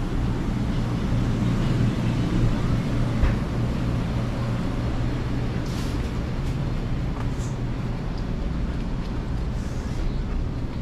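Steady low engine hum, with a few faint clicks and short hisses about two-thirds of the way through.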